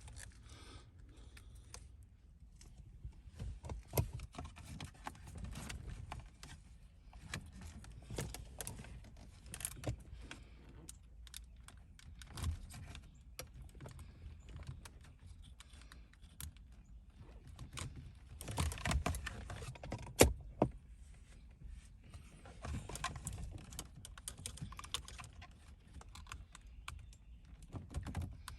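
Hand tools and small metal and plastic parts being handled during car repair work: scattered light clicks, taps and rattles, the loudest a sharp click about twenty seconds in.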